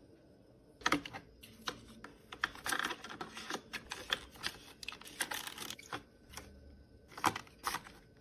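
Skincare bottles, jars and plastic containers clicking and clattering in quick, irregular taps as they are handled and set into a small fridge, starting about a second in.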